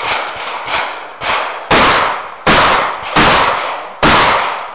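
Shotgun shots fired in a rapid string, each with an echoing tail. Lighter reports come in the first second and a half, then four louder shots follow less than a second apart.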